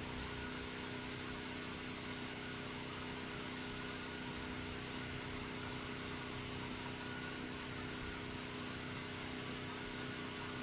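Steady drone of a distant engine-driven machine, which the owner takes for a compressor or generator, running without change. It holds a constant low hum with a faint, thin, higher whine over a hiss.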